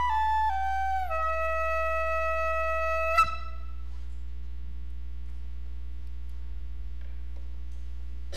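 A flute playing a short phrase that steps down in pitch to one long held low note, cut off about three seconds in; after that only a steady electrical hum remains.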